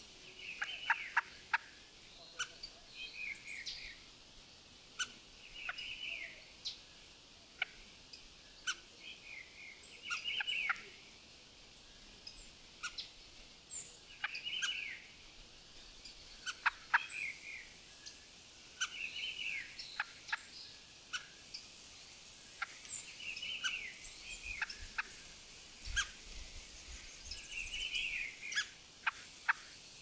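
Wild birds singing short phrases repeated every few seconds, with sharp clicks and chips in between, over a steady high hiss.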